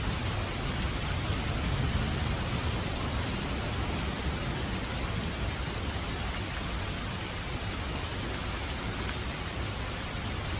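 Steady rain falling, an even hiss of many drops, with a low rumble underneath that is strongest in the first two seconds.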